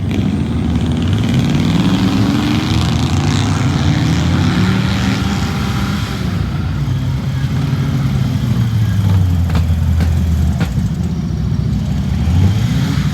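Truck engine revving hard through a mud pit, its pitch rising and falling again and again as the driver works the throttle.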